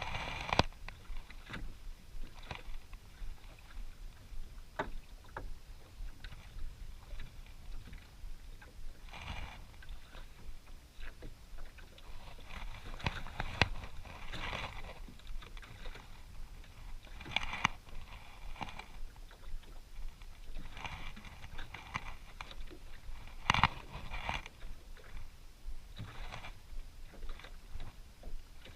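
Water lapping and slapping against the hull of a small fishing boat at sea, in irregular splashes, with scattered sharp knocks.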